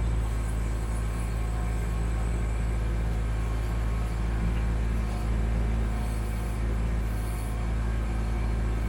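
Kubota B2650 tractor's three-cylinder diesel engine running steadily at an even speed while it powers the BH77 backhoe.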